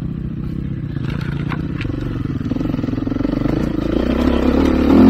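Dirt bike engine running on the throttle, growing louder toward the end, with a few light clicks about a second in.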